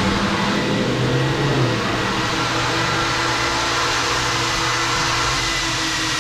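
Steady rushing noise of a car wash's air dryer blowers, with a steady low hum underneath.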